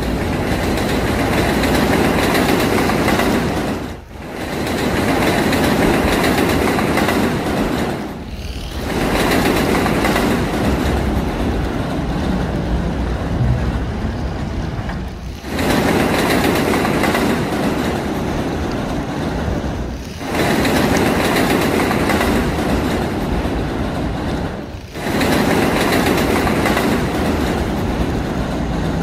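A train running on rails, a steady noisy rush with short dips in level five times.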